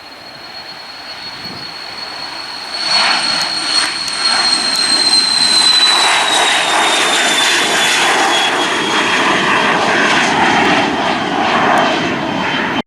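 Cessna Citation XLS business jet's twin Pratt & Whitney PW545 turbofans passing close by. A jet roar swells loud about three seconds in, and a high fan whine drops in pitch as the jet goes past. It cuts off suddenly at the end.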